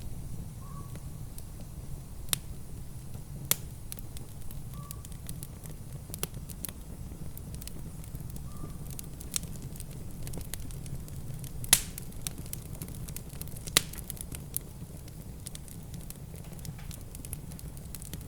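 Wood fire in a fireplace crackling, with irregular sharp pops over a steady low rumble; the loudest pops come about twelve and fourteen seconds in.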